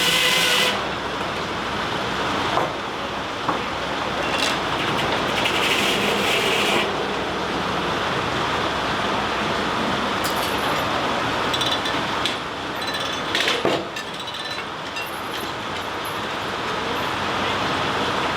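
Sawmill at work: a saw's high whine through a cut stops within the first second, then the mill runs on with a steady clatter and scattered knocks and clinks, with a second spell of high whine from about three to seven seconds in.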